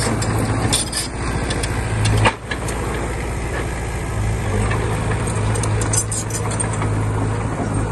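Diesel engine of a working earthmoving machine running steadily with a low hum, with scattered metallic clinks and rattles and a sharp knock a little after two seconds in.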